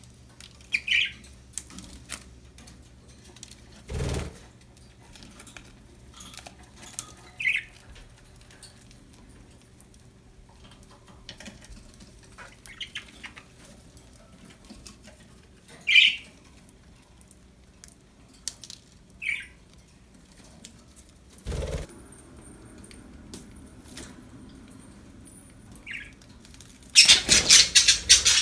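Pet budgerigars giving short, separate chirps every few seconds, with two brief thumps along the way. Near the end comes a loud, rapid flurry of wing flapping.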